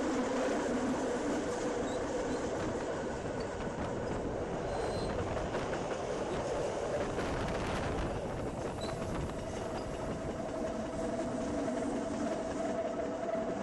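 Electric Rhaetian Railway train running along the track, heard from an open carriage window: a steady rumble of wheels on rails with a whining tone that rises in pitch partway through.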